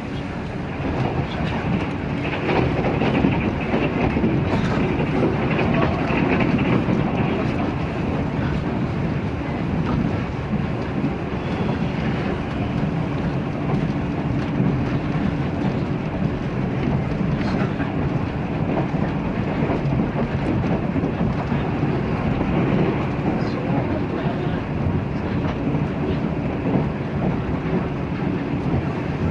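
Inside a JR 485-series electric train running at speed: a steady rumble of wheels on rail, with occasional faint clicks over rail joints and a low steady hum in parts.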